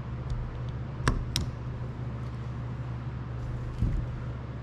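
Two sharp metallic clicks about a second in, a retaining clip being fitted into the groove of a Kohler K241 piston to hold the wrist pin, then a dull knock near the end, all over a steady low hum.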